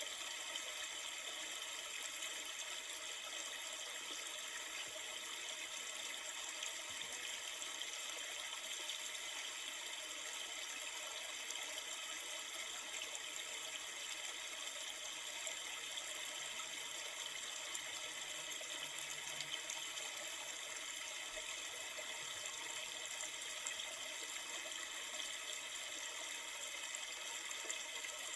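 River water flowing steadily: an even, unbroken hiss of moving water.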